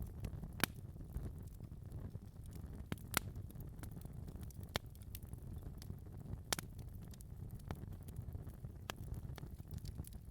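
Wood fire burning in a fireplace: a steady low rumble of flames with sharp crackles and pops every second or so, the loudest pops under a second in, about three seconds in and about six and a half seconds in.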